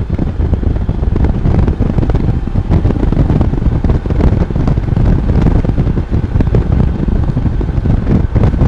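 Steady low rush of wind noise on a microphone inside a full-face helmet, riding a Honda Goldwing motorcycle, with the bike and road noise under it.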